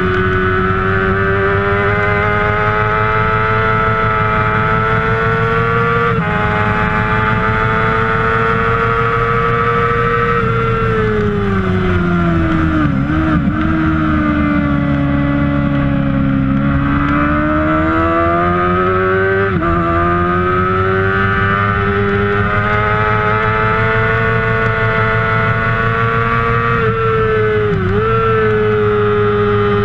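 Kawasaki ZX-6R 600 cc inline-four racing engine at high revs. Its pitch climbs and dips sharply at upshifts about six, nineteen and twenty-eight seconds in. Around twelve seconds in it falls in pitch with short blips of downshifts, then climbs again as the throttle opens.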